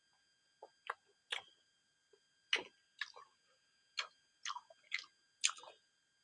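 Close-up chewing of silkworm pupae: about ten short, irregularly spaced crunches and mouth smacks.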